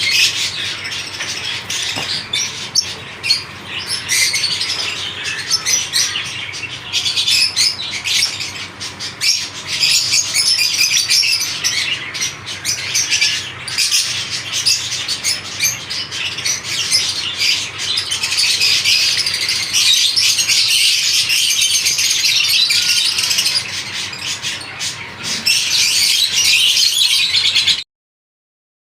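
A flock of lovebirds chattering: a dense, continuous mass of high chirps and squawks with sharp clicks mixed in, cutting off suddenly near the end.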